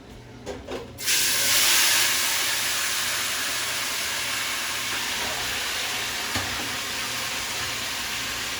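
Chicken going into a hot pot: a couple of small knocks, then about a second in a sudden loud sizzle that carries on steadily and slowly eases.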